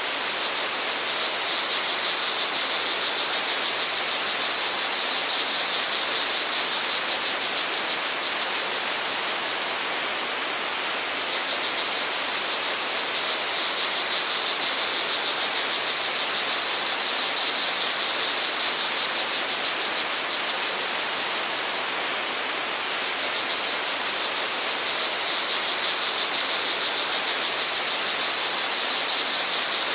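Rushing water as a steady hiss, with a high, fast-pulsing insect trill, crickets, swelling and fading in long phrases and pausing twice.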